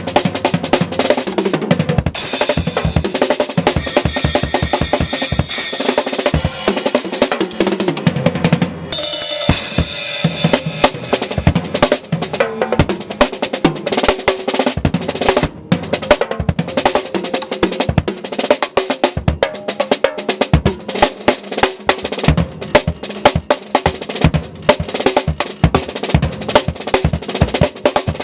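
Acoustic drum kit played solo: fast, dense strokes on snare and bass drum, with a bright, sustained high wash twice in the first half and a brief break about fifteen seconds in.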